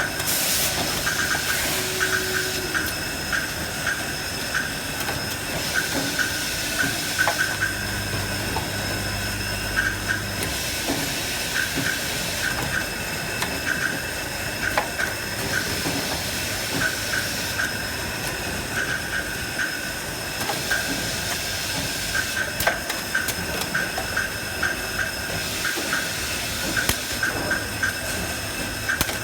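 Packaging machine running: a steady mechanical hum and hiss with a high tone, overlaid by repeated clusters of quick ticking and clicking from its moving parts.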